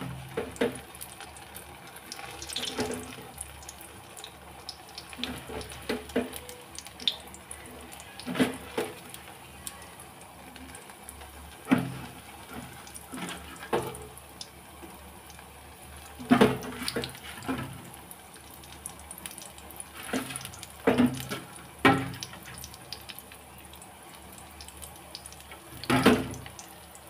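Besan batter dumplings frying in hot oil in a wok: a steady low sizzle, with a sharper burst of sizzling every few seconds as another dollop of batter drops into the oil.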